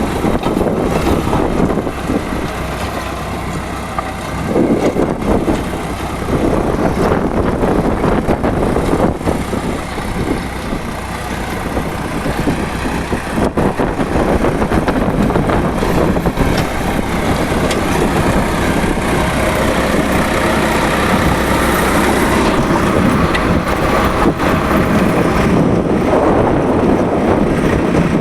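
Swaraj 742 XT tractor's diesel engine running steadily at working speed, driving a rotavator, with a dense mechanical clatter over the engine hum.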